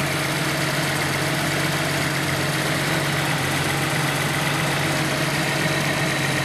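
Datsun 280ZX's straight-six engine idling steadily.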